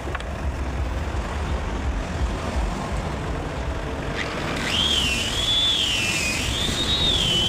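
A low steady rumble, then about four and a half seconds in a power tool starts: a rising whine that settles into a high, wavering tone as the tool begins cutting wood.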